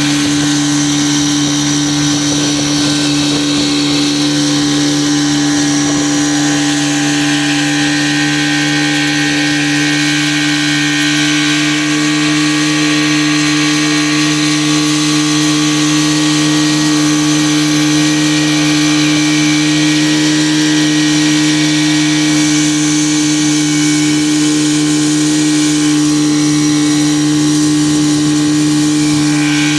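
Motorboat engine running at a steady speed: a constant, even drone that doesn't change, with a hiss of wind and water above it.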